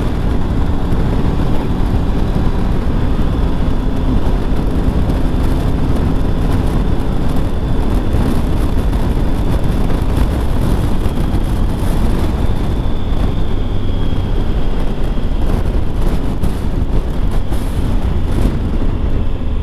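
Wind rushing over the microphone with the steady drone of a Triumph Tiger 1200 GT Pro motorcycle's three-cylinder engine at cruising speed.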